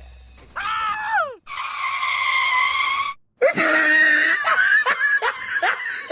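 A person's voice: a short falling cry, then a long held scream, then a run of breathless laughter.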